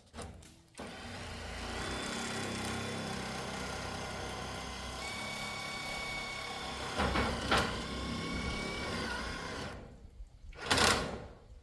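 A small motor running steadily for about nine seconds, with a couple of short sharp noises partway through, then stopping, followed by a louder brief noisy rush near the end.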